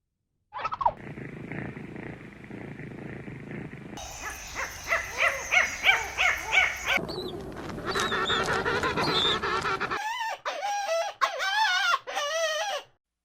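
Farm animals calling in several short clips cut one after another, including a quick run of short repeated calls and later some wavering calls.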